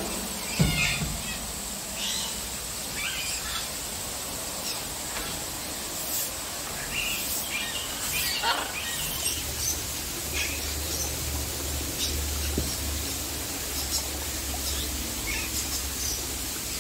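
Assorted aviary birds chirping and calling in short, scattered notes over a steady high-pitched background whine.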